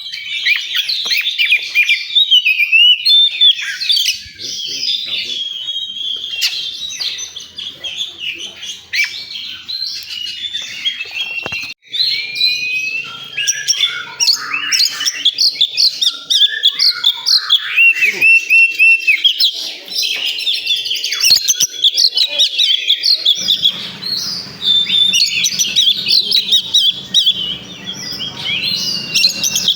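Oriental magpie-robin (kacer) singing a rapid, varied song of whistles and chirps without pause.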